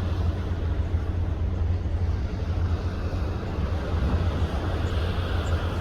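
Steady low droning rumble with an even rushing wash over it, the running noise heard aboard a ship at sea.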